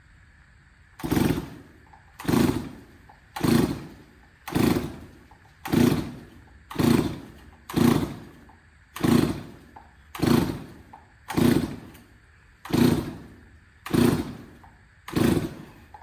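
Stihl 024 Wood Boss chainsaw being pull-started on choke after a piston and cylinder replacement: thirteen pulls of the recoil starter, about one a second, the engine turning over with each pull but not catching.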